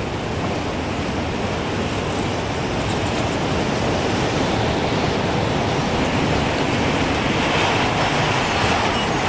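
Gusting wind, a steady rushing noise that swells toward the end; faint wind-chime tinkles begin near the end.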